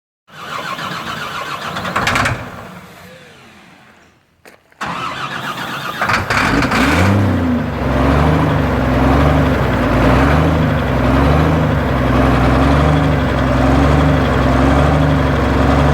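Engine of a home-built tractor-pull tractor being cranked over: the first attempt gives a short burst and then winds down to near silence. On a second crank at about five seconds it fires near the six-second mark, revs up and settles into a loud idle that surges gently up and down about once a second.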